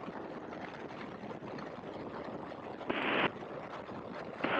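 Steady in-flight cockpit noise of an open-cockpit Great Lakes biplane, engine and wind heard as an even rush through the headset intercom. About three seconds in, a short burst of radio static.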